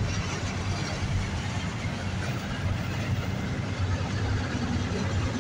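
Autorack freight cars rolling past: a steady, low-pitched noise of steel wheels running on the rails.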